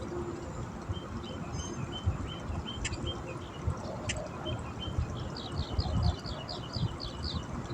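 A bird singing: scattered short high chirps, then a quick run of about ten repeated notes near the end. A low rumble runs underneath.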